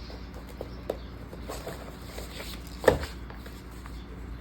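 Light handling noises from planner supplies being arranged in a traveler's notebook: a few faint taps and rustles, with one sharper knock about three seconds in.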